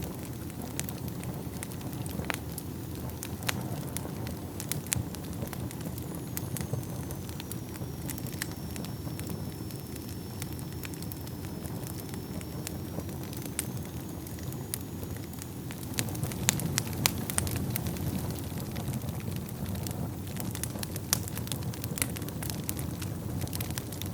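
Wood fire burning in a fireplace: a steady low rumble of flames with many sharp crackles and pops, which grow busier in the second half. A faint high whistle dips and rises in the middle.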